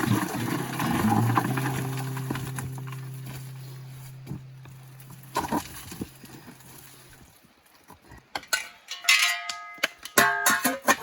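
A held musical tone fades slowly away over the first seven seconds. Then, from about eight seconds in, a steel shovel blade clanks and scrapes against rock several times, each strike ringing briefly.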